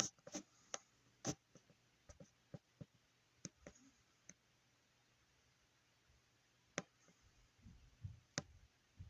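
Faint, irregular clicks and light taps from small screws and a 3D-printed plastic case being handled and fastened, with a quiet gap in the middle and a few soft knocks near the end.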